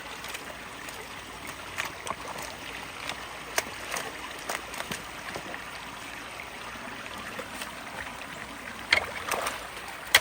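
Steady rush of flowing water from a partly clogged culvert and ditch, with scattered short knocks and clicks, the strongest about nine seconds in.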